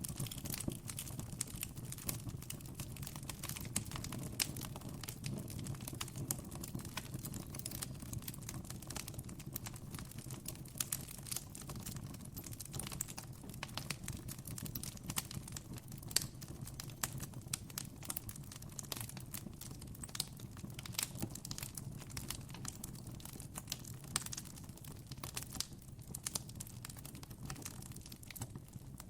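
Campfire burning, with irregular sharp crackles and pops over a low steady rumble.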